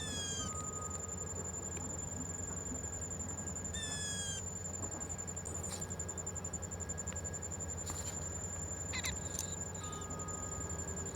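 Steady high-pitched insect drone, with two short bird calls at the start and about four seconds in, and a few brief clicks near the nine-second mark.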